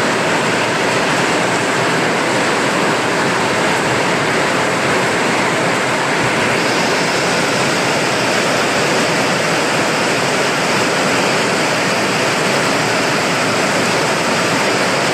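Heavy rain falling and splashing in a steady, even downpour.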